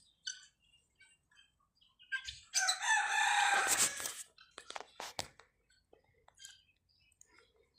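A bird calling: one long, loud call lasting about a second and a half, starting about two and a half seconds in. A few sharp clicks follow it, with faint chirps scattered around.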